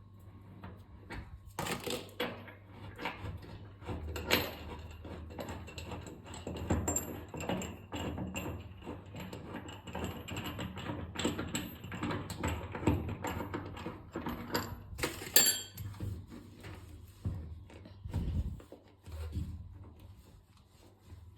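A metal hand tool working a transit bolt loose from the back of a washing machine: irregular metal clicks, scrapes and rattles, with a few louder knocks about two, four and fifteen seconds in.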